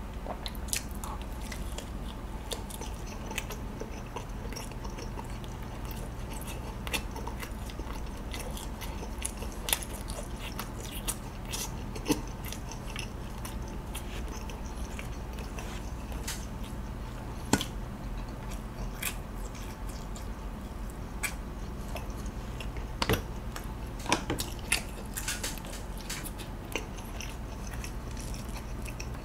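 Close-miked biting and chewing of a spiral-cut sausage on a skewer: scattered wet mouth clicks and smacks over a low steady hum.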